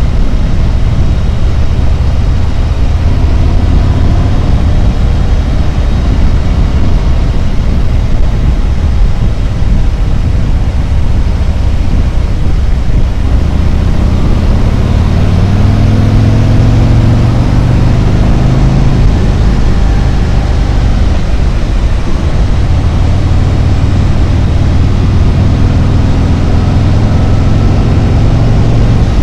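Harley-Davidson Road Glide's V-twin engine and exhaust running steadily at road speed. The engine note climbs and falls back about halfway through as the revs change.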